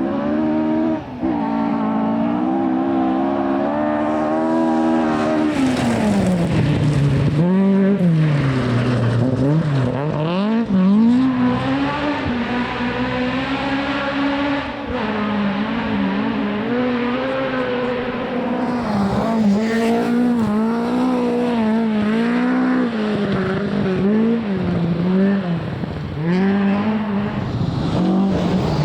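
Rally car engines revving hard, their pitch repeatedly climbing and dropping as they brake, change gear and accelerate through corners, with a few sharp crackles about six to eight seconds in.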